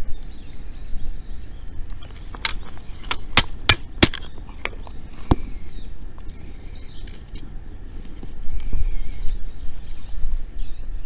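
Wood fire crackling, with a run of sharp pops from the burning wood between about two and five seconds in.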